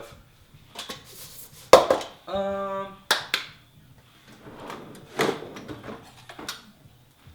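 Kitchen handling noises: a sharp knock, then a short, steady buzzing tone held for under a second, followed by scattered clicks and knocks.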